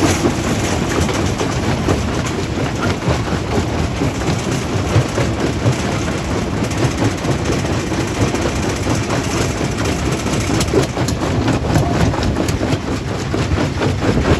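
Stone crushing plant running: steady heavy machinery noise with a dense, continuous rattle and clatter of rock.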